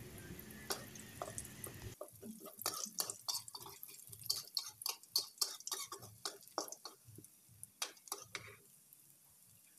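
Garlic, shallot and chili paste frying in oil in a metal wok, with irregular sizzling crackles and pops and a metal spatula stirring and scraping the pan. The crackling thins out near the end.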